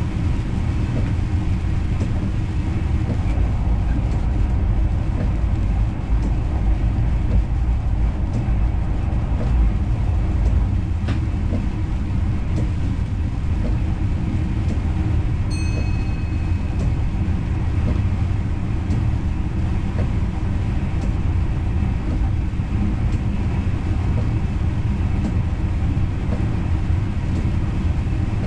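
Intercity train running on the line, heard inside the driver's cab: a steady low rumble. A short high beep sounds about halfway through.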